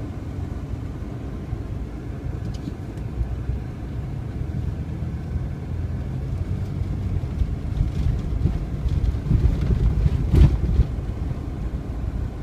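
Steady low rumble of a car driving, heard from inside the cabin, growing a little louder over the stretch, with a single louder knock about ten seconds in.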